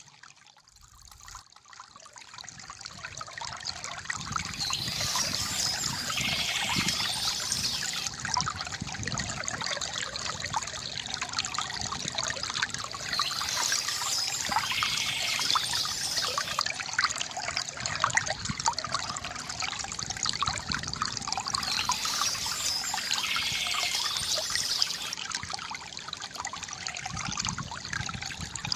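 Water from a bamboo fountain trickling and gurgling steadily, with birds chirping at intervals. It swells up from a low point over the first few seconds.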